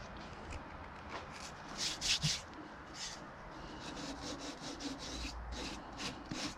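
Light hand-rubbing strokes on a piece of fatwood: short, irregular scratchy swipes, a few of them about two seconds in and more in quicker succession near the end.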